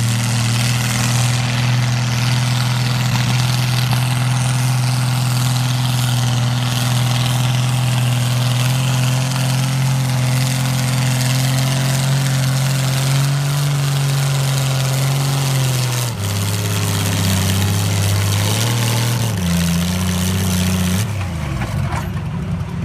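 Farm tractor engine running hard at a steady pitch while pulling the sled. About two-thirds of the way in its pitch drops and wavers as the pull ends, and near the end it falls back toward idle.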